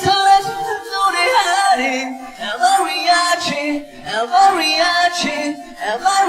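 Male K-pop vocals singing a melodic line with the instrumental track stripped out, leaving the voices mostly bare with a faint held tone of leftover backing music.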